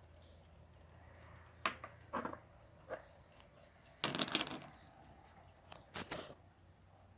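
A few short knocks and clatters, with a longer rattle about four seconds in, over a low steady hum.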